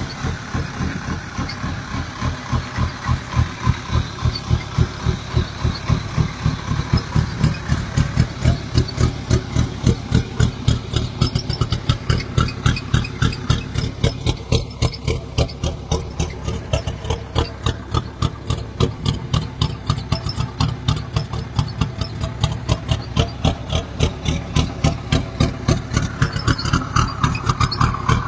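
VW Transporter 2.5 TDI five-cylinder turbodiesel engine idling, with a steady, regular pulsing beat.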